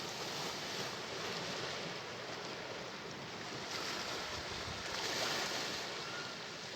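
Sea waves washing onto the shore, a steady surf noise that swells gently, loudest about five seconds in.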